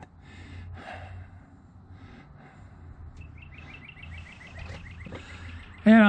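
A bird trilling outdoors: a fast, even run of repeated high chirps starting about three seconds in, over a low steady background rumble.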